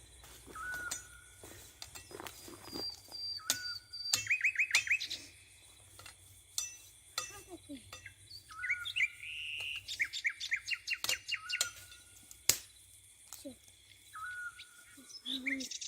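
Several wild birds singing together in a dawn chorus, with repeated short trills and whistled notes overlapping. A few sharp clicks are heard among them.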